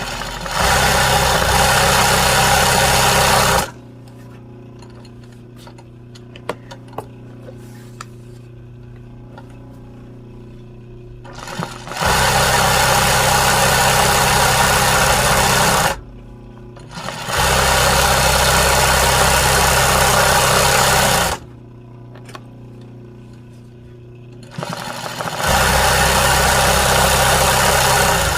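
Sewing machine stitching an embroidery in four runs of about three to four seconds each, stopping in between, with a few light clicks during the pauses.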